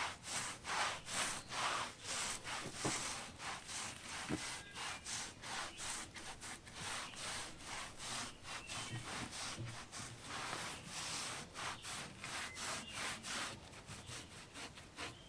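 Cloth rag rubbing wood stain into a wooden board, in quick back-and-forth strokes about two to three a second.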